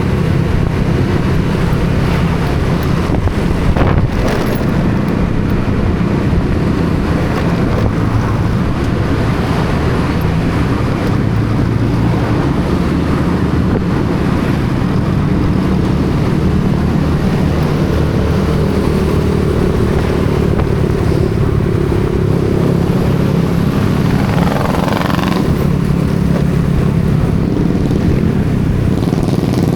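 Motorcycle engine running steadily while riding along a road, with some wind on the microphone.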